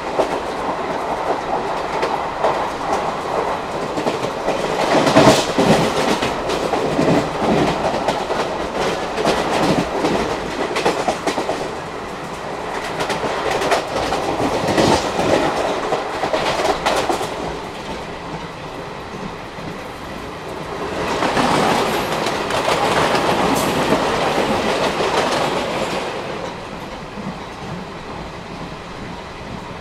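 Wheels of ICF passenger coaches running fast over the rails, a continuous rumble and rush with a clickety-clack of rail joints. It swells louder for a few seconds at a time and eases off near the end.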